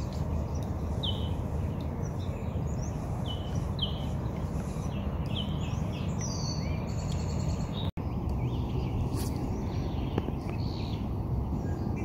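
Outdoor birdsong: a series of short bird chirps over a steady low background noise, with the chirps mostly in the first half or so. The sound drops out for an instant about eight seconds in.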